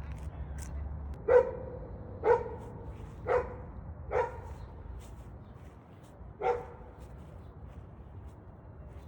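A dog barking: four short barks about a second apart, then a fifth after a pause of about two seconds.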